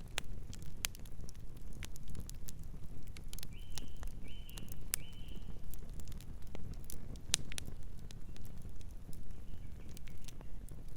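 Campfire crackling: irregular sharp pops and snaps over a steady low rumble of burning. Three short high chirps come close together about halfway through.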